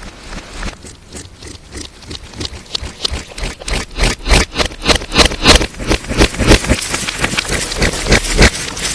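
Slime being squeezed and worked by hand for ASMR, a run of wet, sticky clicks and crackles at about three or four a second, getting louder about three seconds in. The audio is processed and distorted.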